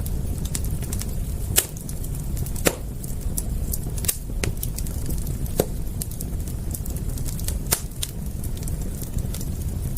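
Campfire crackling: irregular sharp pops and snaps, a few louder ones standing out every second or two, over a steady low rumble.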